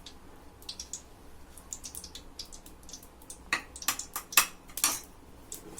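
Kitchen cookware clinking: several sharp clinks of a utensil or dish against a pan, bunched about three and a half to five seconds in, over faint scattered ticks from oil heating in the pan.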